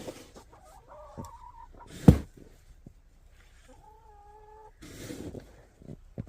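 Backyard hens calling: a short call about a second in, then a longer, steady, drawn-out call around four seconds in. A sharp thump about two seconds in is the loudest sound, and there is a brief rushing noise near five seconds.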